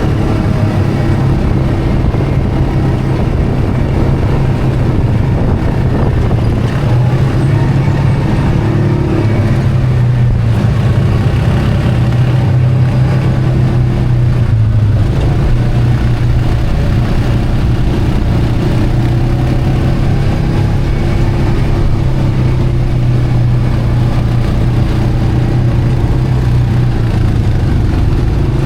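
ATV engine running steadily while riding, its pitch wavering a little with the throttle.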